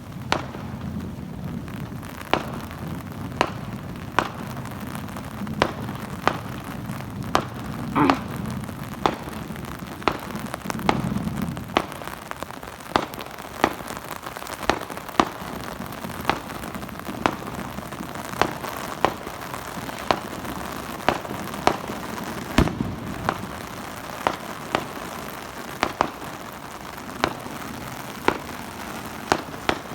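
Fireworks going off in a steady run of sharp bangs, roughly one a second, over a continuous crackling hiss.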